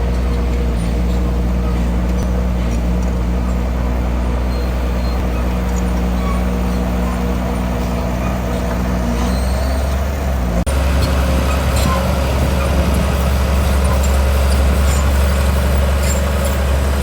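Heavy diesel construction machinery running steadily. About two thirds of the way through, the engine sound changes abruptly to a deeper, heavier hum.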